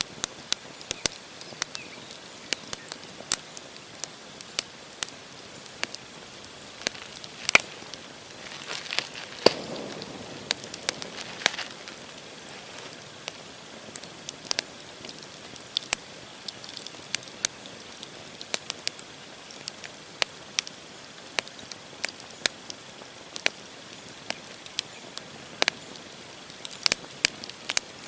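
Wood campfire burning, the logs crackling with frequent irregular sharp snaps and pops over a soft steady hiss. The hiss swells briefly about ten seconds in.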